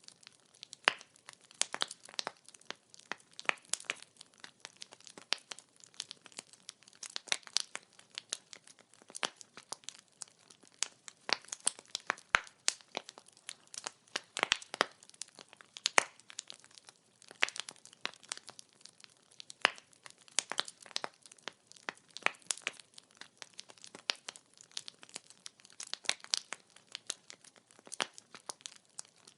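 Wood fire burning, its logs crackling and popping in irregular sharp snaps over a faint steady hiss.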